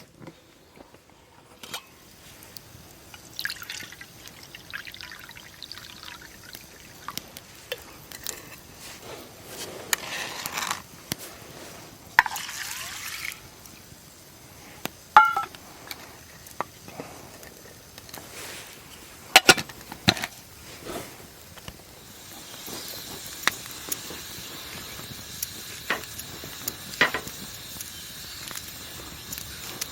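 Camp cooking sounds: scattered clicks and knocks of utensils, liquid being poured about twelve seconds in, then a steady sizzle in the pan from about twenty-two seconds on.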